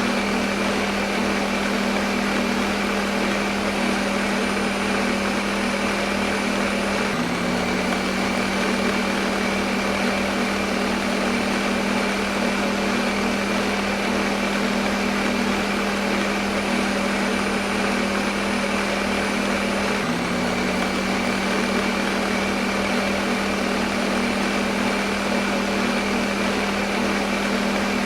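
Electric blender running steadily at one speed: a constant motor hum over a dense whirring rush, with the hum dipping for a moment twice.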